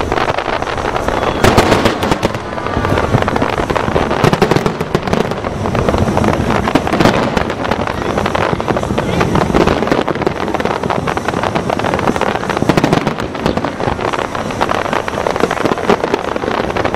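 Fireworks display: aerial shells bursting in a dense, continuous barrage of bangs and crackling, with no pause.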